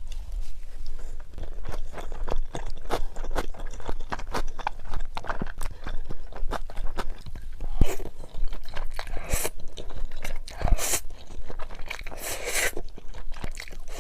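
Close-miked eating sounds: a person biting, crunching and chewing food in a quick run of wet clicks and crunches, with a few longer, louder bursts in the second half.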